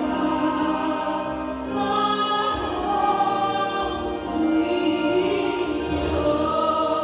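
A choir singing an anthem with accompaniment, in long held chords that shift every second or two.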